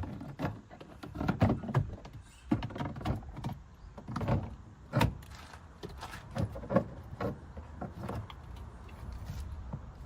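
Irregular knocks and clunks of bodywork repair on the van, a few a second, some sharp and some dull.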